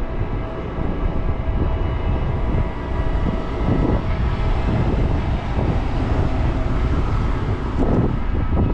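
Steady, loud rumble of wind and road noise on the microphone of a moving bicycle.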